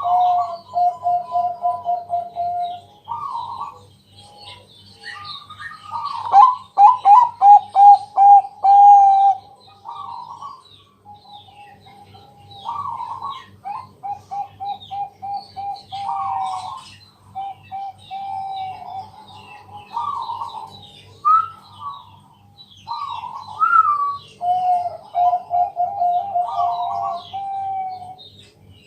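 A zebra dove (perkutut) of the Bangkok line cooing: phrase after phrase of quick pulsed coo notes, loudest and fastest about six to nine seconds in. Faint high chirps and a low steady hum sound underneath.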